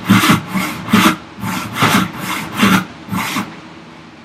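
Handsaw cutting through a wooden block by hand: quick back-and-forth strokes, about two a second, that stop a little over three seconds in.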